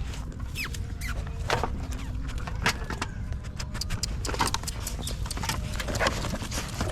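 Puppies giving short high-pitched squeaks and whimpers, mixed with scattered clicks and rustling, over a steady low rumble.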